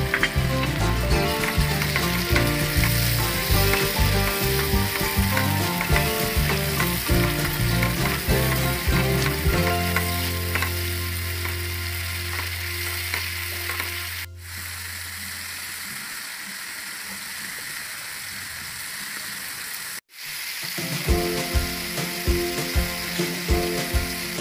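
Curry masala sizzling as it fries in a nonstick pan and is stirred with a spatula. Background music with a steady beat plays over it, dropping out for several seconds past the middle, where only the sizzle is heard.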